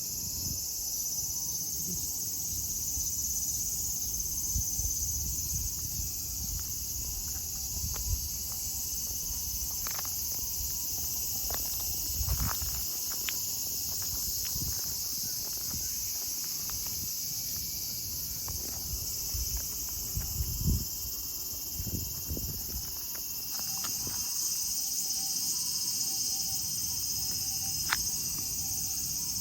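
Cicadas calling in a steady, high-pitched chorus; the chorus changes about two-thirds of the way through. Scattered soft knocks and low rumbles sound underneath.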